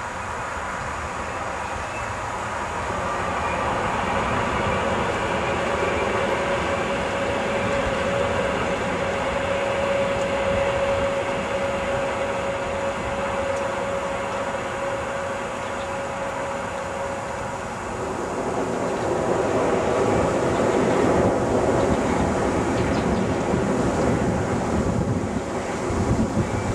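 Finnish express train hauled by an Sr1 electric locomotive approaching and running onto a steel truss bridge. A steady rumble carries a steady high whine through the middle, grows louder about two-thirds of the way in, and turns to clattering near the end as the train reaches the bridge.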